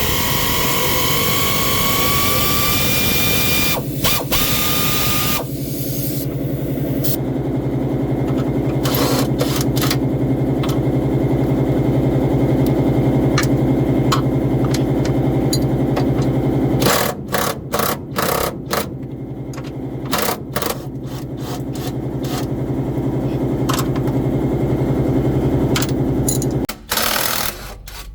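A steady mechanical engine or motor hum. A rising whine runs over it in the first few seconds, and there are several brief breaks and clatters later on.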